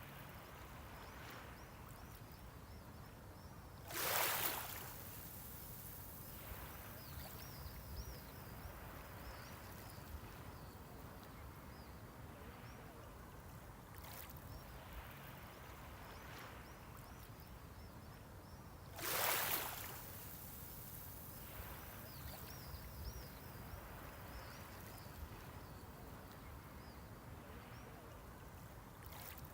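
Small sea waves breaking on the shore: two short washes of surf about fifteen seconds apart, a softer one between them, over a low steady wash of water.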